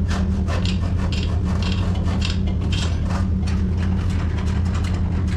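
V8 gas-engined van driving, towing a loaded milk trailer, heard inside the cab as a steady low engine and road rumble, with irregular clicks and rattles over it.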